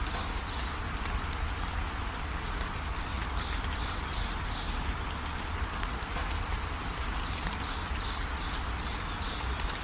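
Steady rain falling, with a bird chirping in runs of short, high repeated notes over it.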